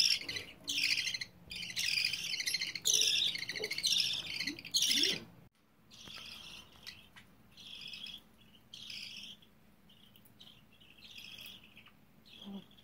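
Baby budgerigars giving repeated begging chirps, about two a second, loud for the first five seconds, then cutting off suddenly and going on more faintly and sparsely.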